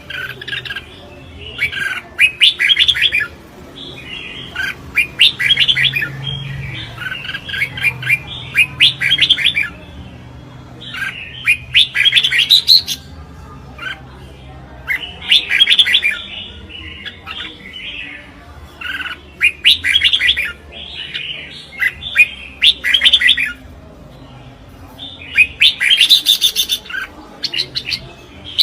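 Red-whiskered bulbul singing: short, quick, chirping phrases, one after another every second or two.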